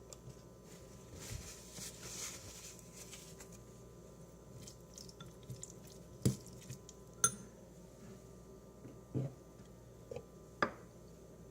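Soft handling noises, then four sharp clinks and knocks of kitchen utensils against dishes, spaced a second or two apart, one of them ringing briefly.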